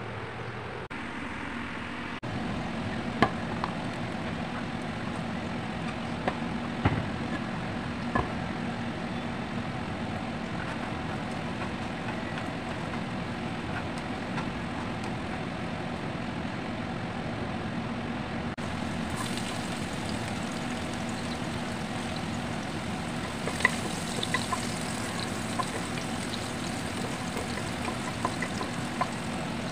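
Chicken pieces frying in oil in a pan over a steady low hum, with scattered clicks and taps of utensils against the pans. A brighter sizzle opens up from about two-thirds of the way through as chopped garlic cooks in hot oil in a pot and is stirred with a wooden spoon.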